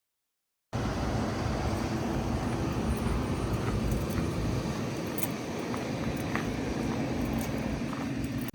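Blue Bird Vision school bus engine running steadily at idle, a low rumble with a steady hum. It starts abruptly just under a second in, and a few faint clicks sound over it.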